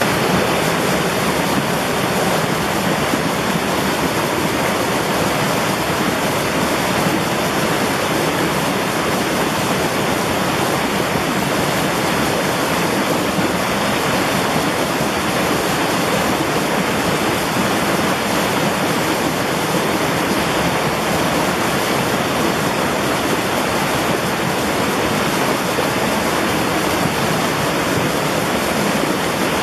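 Mountain valley stream rushing over rocks: a steady, unbroken wash of water noise.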